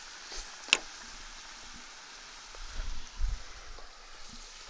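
Onion and sun-dried tomatoes frying in a pan, a steady sizzle, with a sharp click about a second in and low muffled bumps around three seconds in.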